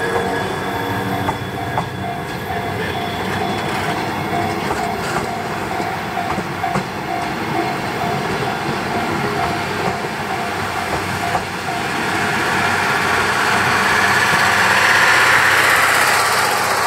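Railway passenger coaches rolling slowly past over a level crossing: a steady rumble with the wheels clicking over rail joints, swelling louder near the end. A level-crossing warning bell rings in repeated short strokes through the first half.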